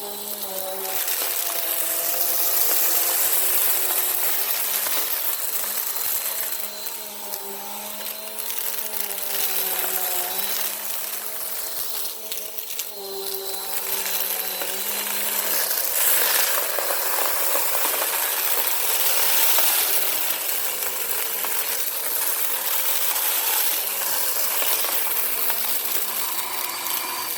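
Bissell Power Force Compact upright vacuum cleaner running steadily, its motor hum wavering slightly in pitch under a strong airflow hiss, with a clinking rattle of sand and grit being sucked up.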